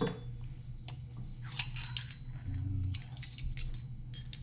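Light clicks, clinks and rubbing of small metal chainsaw top-end parts (piston, ring and clips) being handled, with a brief low hum near the middle.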